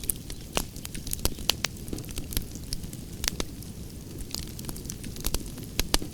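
Campfire crackling: irregular sharp pops and snaps from burning wood over a steady low rumble of the flames.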